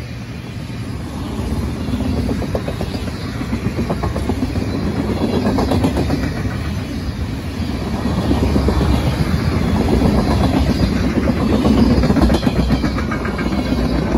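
Freight train of tank cars rolling past at speed: a steady rumble with rapid clicking of the wheels over the rails, growing a little louder toward the end.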